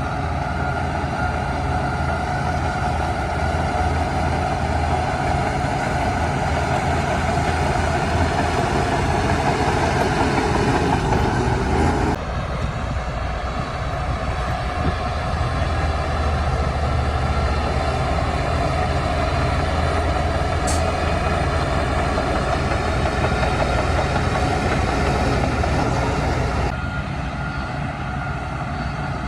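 Heavy diesel earthmoving machinery, a bulldozer and dump trucks, running steadily under load with a deep engine rumble. The sound changes abruptly about twelve seconds in and again near the end.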